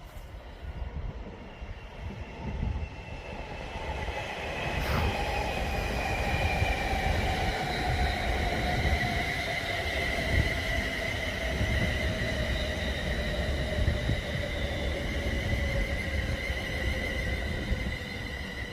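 London Northwestern Railway electric train running through the station. Its whine slowly falls in pitch over about fifteen seconds over a rumble of wheels on rail, with a sharp click about five seconds in.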